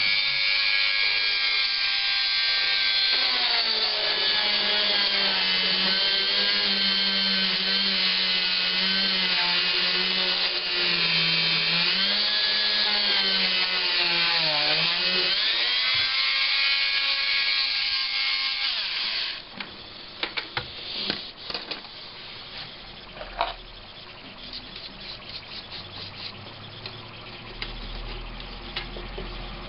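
Small handheld rotary power tool sanding the laptop's plastic case, its pitch dipping and recovering as it is pressed against the work. It stops abruptly about two-thirds of the way through, followed by light clicks and scraping of handling.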